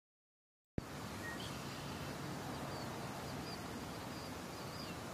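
After a moment of silence, outdoor ambience starts abruptly with a click: a steady background hiss with faint, short, high chirps of small birds repeating every half second or so.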